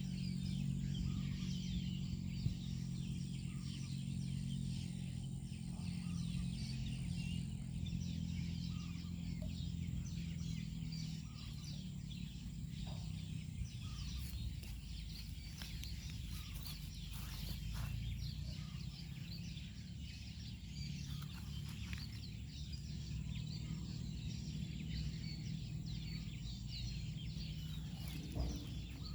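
Outdoor pondside ambience: many small high-pitched bird chirps over a steady low rumble that is heaviest in the first ten seconds.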